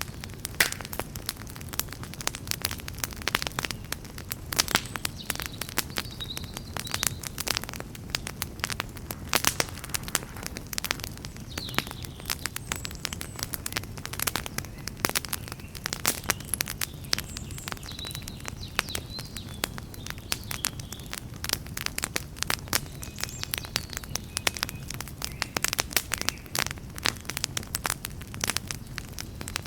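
Campfire burning: wood crackling and popping in dense, irregular snaps over a low, steady rumble of the flames.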